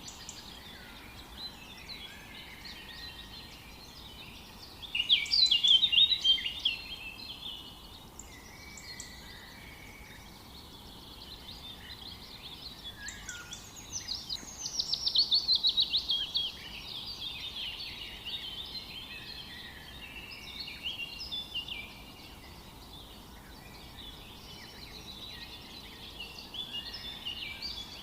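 Several songbirds singing and calling, with two louder songs of rapid repeated notes, one about five seconds in and one near the middle, over a faint steady background hiss.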